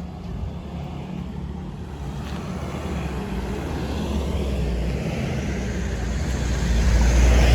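A motor vehicle approaching, its engine and road noise rumbling and growing steadily louder, loudest near the end.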